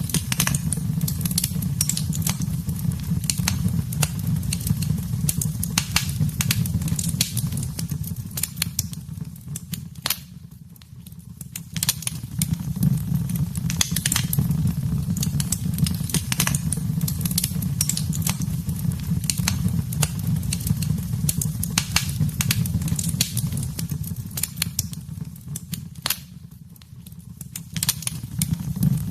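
Wood fire burning in a fireplace: dense, irregular crackling and popping over a steady low rumble, dipping briefly twice.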